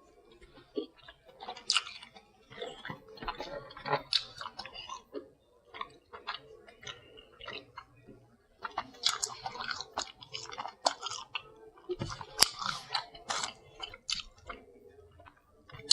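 A person eating close to the microphone: wet chewing and mouth smacking with crunchy bites, in irregular clicks that grow busier about halfway through.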